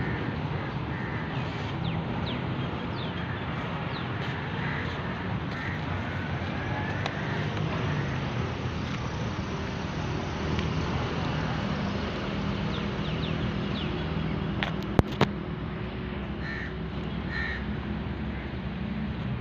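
Birds calling and chirping over a steady outdoor background rumble, with two sharp clicks close together about fifteen seconds in.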